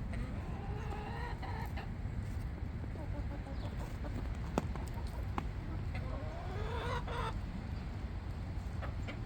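Chickens clucking, with a drawn-out call near the start and another about seven seconds in. Two sharp clicks come midway, over a steady low rumble.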